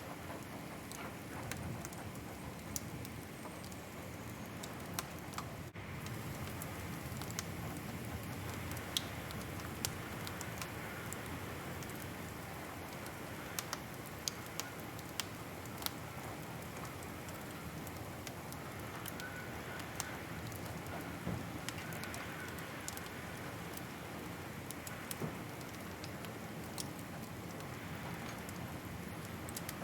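Wood fire crackling, with scattered sharp pops and snaps over a steady soft rush of flame.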